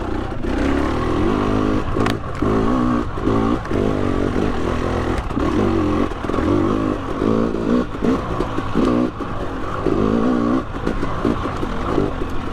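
KTM 300 XC TPI two-stroke single-cylinder dirt bike engine pulling in third gear, revving up and down again and again as the throttle is opened and rolled off over the trail. There is a sharp knock about two seconds in.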